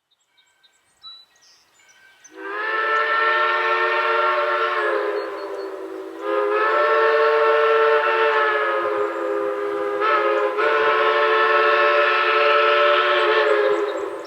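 Steam locomotive whistle sounding a chord of several tones in three long blasts: the first sags lower before the second, and a short break splits the second from the third. Faint bird chirps come before it.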